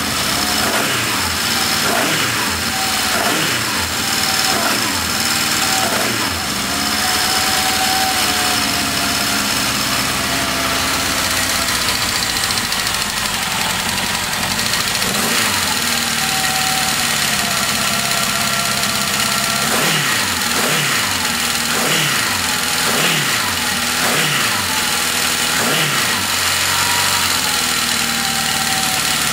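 Yamaha XS1100's air-cooled inline four-cylinder engine, warmed up and running on a homemade MegaSquirt fuel injection setup, revved by hand again and again. The revs fall back after each blip, with a quick run of blips near the end, and in between it returns to an idle that is not very smooth.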